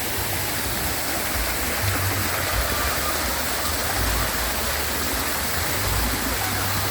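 Steady rushing of falling water, an even hiss with no pauses.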